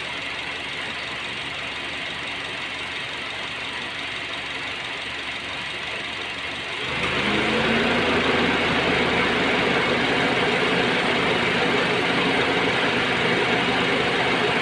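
Honda Jazz engine idling steadily. About halfway through, the automatic air-conditioning cuts in and the sound steps up, with a fan rush and a deeper engine note under the added load. Under this load the engine shakes, which the owner puts down to a misfire.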